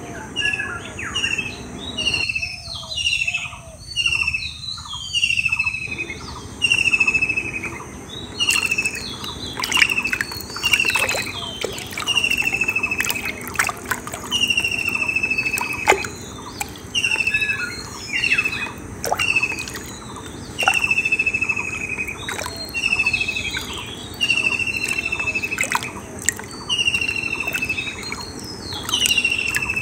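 A bird calling over and over, a short falling whistle about once a second. Under it, wet squelching and splashing as hands work in shallow muddy water.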